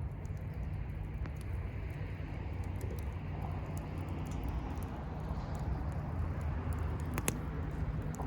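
Firewood bonfire crackling, with scattered small pops and a louder pair of pops about seven seconds in, over a low steady rumble.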